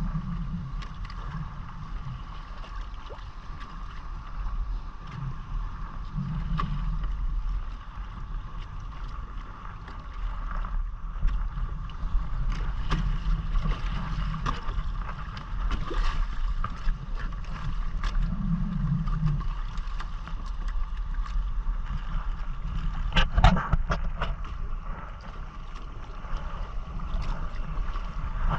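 Wind rumbling on the microphone and water sloshing against the hull of a Hobie Island sailing kayak under way, with a steady faint hum and scattered sharp splashes. The splashes are loudest about three-quarters of the way through.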